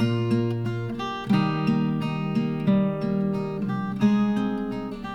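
Acoustic guitar music: plucked and strummed chords, an instrumental intro before the singing.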